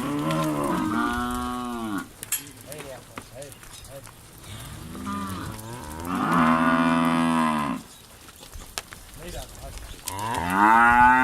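Cattle mooing: three long, drawn-out moos, one at the start, one in the middle and one near the end, the last the loudest.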